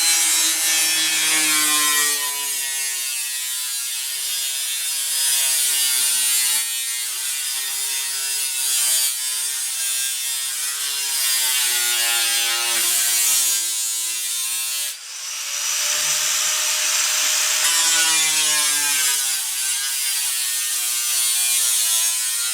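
Bauer angle grinder cutting sheet-metal furnace duct pipe: a loud, steady grinding hiss over the motor's whine, which dips and recovers in pitch as the disc bites. It stops briefly about fifteen seconds in and then starts cutting again.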